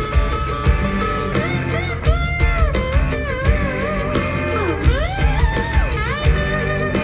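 Band music with a steady beat, bass and guitar; a lead line slides and bends in pitch over it.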